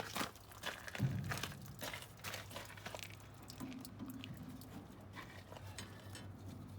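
Irregular small clicks, knocks and scrapes of hands and tools working on a radiator hose connection, densest in the first few seconds, over a steady low hum.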